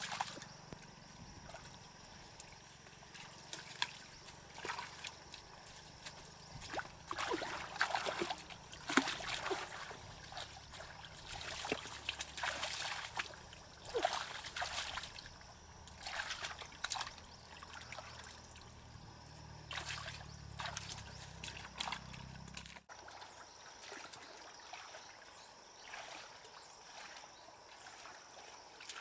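Water trickling and splashing in irregular bursts, with scattered clicks and knocks. A low steady hum underneath stops abruptly about three-quarters of the way through.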